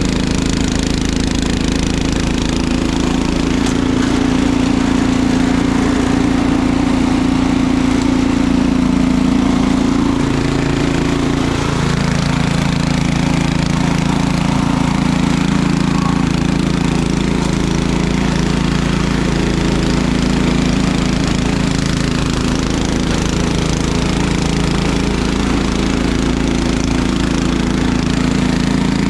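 Engine running steadily, its note changing about ten seconds in.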